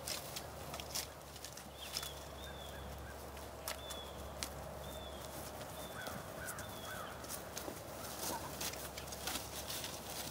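Outdoor birds calling: a short, high, down-slurred call repeated several times, with a few lower chirps about six seconds in. Scattered soft knocks and a low wind rumble lie underneath.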